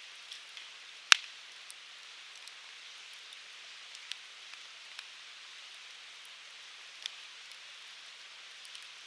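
Firewood burning in an open fire pit: a steady hiss with scattered crackles, a sharp loud pop about a second in and smaller pops near four and seven seconds.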